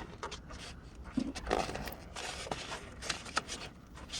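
Scrapes, rustles and a few sharp clicks from hands working on the water heater parts, loudest about a second and a half in.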